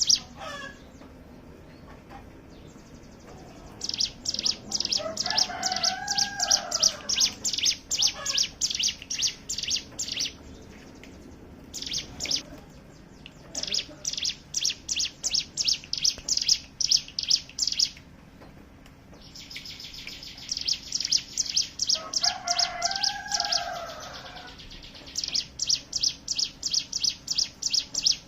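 Ciblek gunung (a prinia) singing its rapid chattering "ngebren" song: sharp high notes repeated about four a second in bouts of several seconds, with short pauses. Twice, a lower warbling call sounds beneath the chatter.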